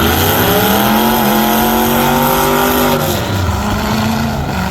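A derby truck's engine revving hard: the pitch climbs over about a second, holds high for about two seconds, then drops away about three seconds in, over a steady low rumble of engines.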